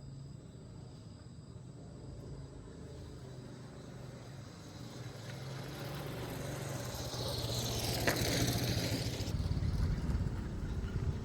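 A motor vehicle coming closer and growing louder: a low engine hum builds, with a hiss that swells and fades around the middle, a sharp click about eight seconds in, and a heavier rumble toward the end.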